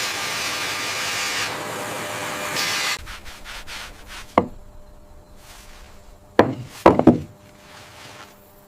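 A steady rubbing, rasping noise that cuts off abruptly about three seconds in, followed by a single sharp knock and then a quick cluster of knocks near the end.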